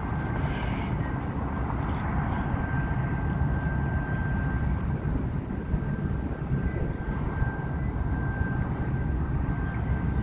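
A train hauled by diesel locomotives rumbling steadily across a steel truss bridge, heard at a distance, with a thin steady whine over the rumble. Wind buffets the microphone.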